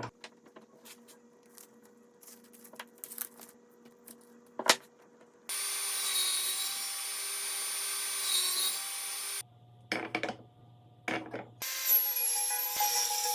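Woodworking sounds: light knocks and clicks of wood being handled with one sharp knock, then a power tool cutting wood. The tool runs steadily for about four seconds, then in short bursts, and again near the end with a high whine.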